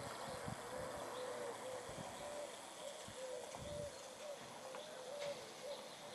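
A bird calling in a steady run of short, low notes, about three a second, faint against the outdoor air.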